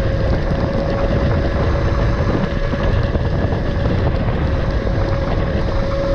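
A Tuttio electric dirt bike's motor whining as a steady tone while riding, with wind rumbling on the microphone.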